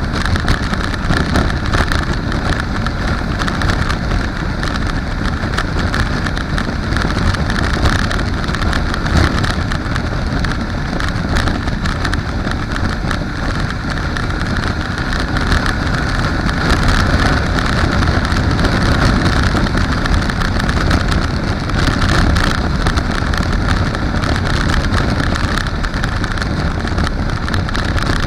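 Kawasaki KLE500 motorcycle riding at high speed, its engine running under loud, steady wind rush and buffeting on the microphone.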